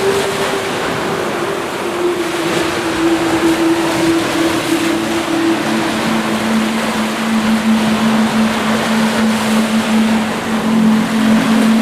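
Steady rushing noise of water, like surf, under a single sustained low tone that steps down in pitch about five seconds in.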